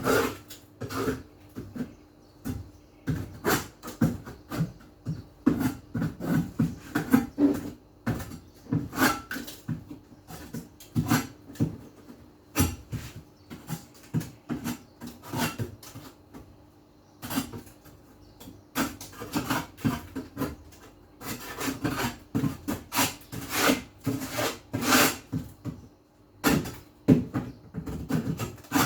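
Quick, irregular rubbing and scraping strokes with knocks, as of surfaces being scrubbed and wiped by hand, pausing briefly a few times. A faint steady hum runs underneath.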